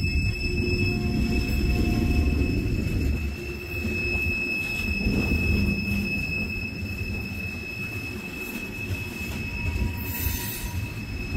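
Freight train of covered hoppers and tank cars rolling slowly past, a steady low rumble from the wheels on the rails, with a high-pitched squeal held on one tone throughout. A short hiss comes about ten seconds in.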